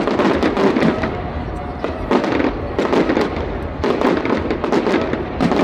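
Fireworks going off in quick succession: many sharp cracks and crackles following one another closely, with music playing alongside.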